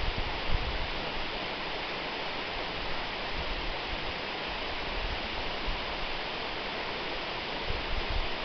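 Waterfall: a steady, even rush of falling water, with brief low rumbles about half a second in and near the end.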